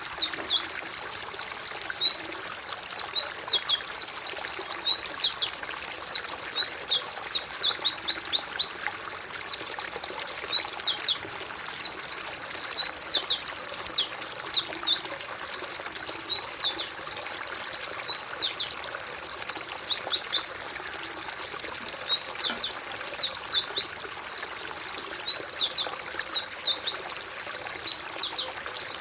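A group of white-eyes (pleci) calling continuously, many short high downward-sweeping chirps overlapping one another, over a steady trickling-water background.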